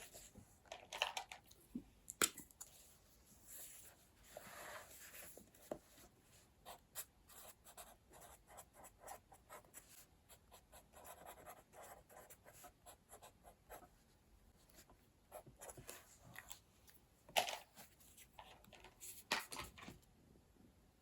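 Pen writing on a paper journal page: faint, irregular scratching strokes with light clicks and taps, a few of them louder about a second in, a little after two seconds, and twice near the end.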